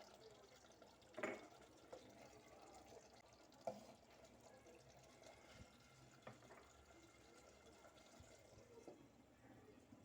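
Faint simmering of chicken cooking in its own released juices in a clay pot, with a few soft knocks, the loudest about a second in.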